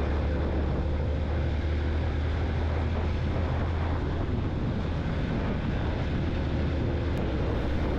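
Yamaha motorcycle running at a steady cruising speed, a constant low engine drone with wind rushing over the microphone.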